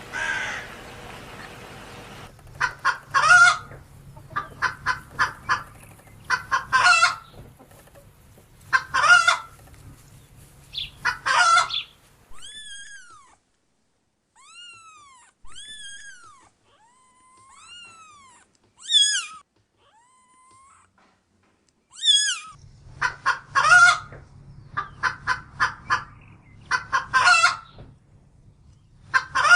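Chicken clucking and cackling in repeated quick runs of short calls, a run every couple of seconds. In the middle the runs stop and a series of single, clear, arching calls takes their place for several seconds before the clucking resumes.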